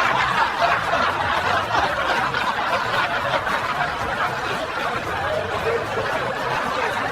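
Many people laughing together after a joke, a dense, steady burst of laughter like a laugh track that cuts off suddenly near the end.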